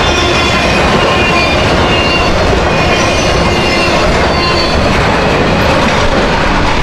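Intermodal freight train's trailer-laden cars rolling past at speed: a steady, loud rumble and clatter of steel wheels on rail, with faint high wheel squeals now and then.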